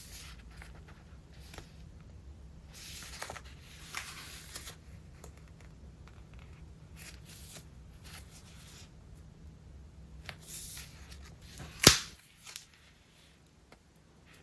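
Pages of a thick collage-filled traveler's notebook being turned by hand: paper and stuck-on collage material rustling in several short spells, with one sharp tap or click about twelve seconds in, the loudest sound.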